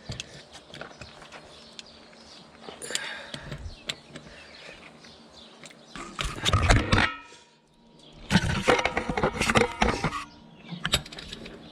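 Wrench tightening the wheel nuts on a John Deere 4430 tractor's wheel: metal clicking and rattling, with two loud bursts of rapid clicking about six and eight seconds in.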